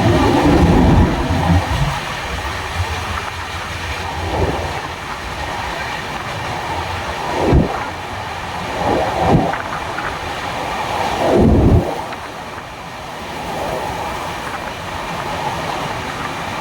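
Dadar–Tirunelveli Express passenger train running on the rails with a steady rushing rumble. It is heavier for the first couple of seconds, and a few louder thuds and clunks come in the middle.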